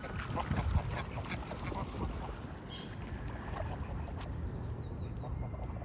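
A quick run of short, repeated waterbird calls, thickest in the first two seconds with a few fainter calls later, over a steady low rumble.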